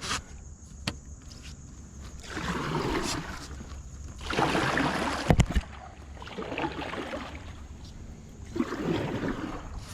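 Kayak paddle strokes in river water, a swishing splash about every two seconds, with one sharp knock about halfway through.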